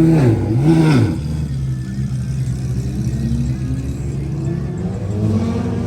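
A car engine revved twice in quick succession, each rev rising and falling, then settling to a steady idle, with the revs creeping up slightly near the end.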